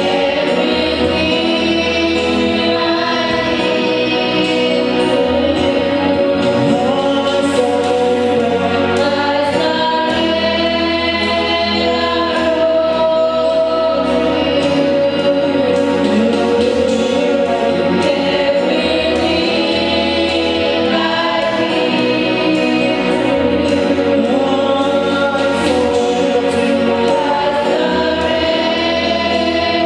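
Gospel music: a group of voices singing together over a steady instrumental backing.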